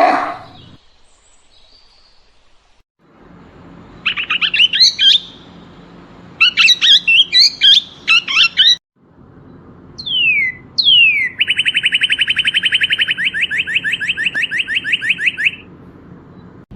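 A songbird singing: short bursts of quick chirps, two falling whistles, then a long rapid trill of several seconds. A louder animal call ends in the first second.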